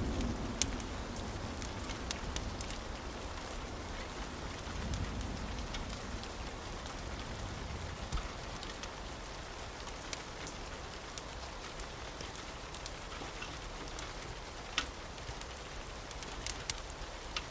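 Steady rain with scattered sharp crackles of a wood fire. A low thunder rumble fades out about a second in and swells faintly again around five seconds.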